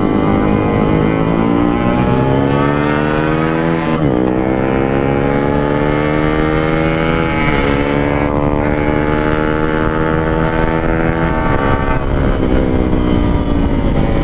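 Yamaha RX-King 135cc two-stroke single-cylinder engine, fitted with an aftermarket Packing Power exhaust, accelerating through the gears. The pitch climbs, then drops at each of three upshifts and climbs again.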